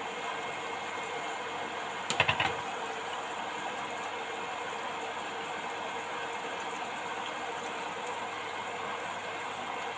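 Oil sizzling steadily as beetroot leaves deep-fry, with a short rattle of clicks about two seconds in.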